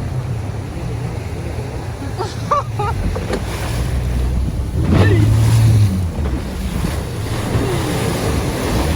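Boat motor running with a steady low drone, under wind buffeting the microphone and the wash of waves.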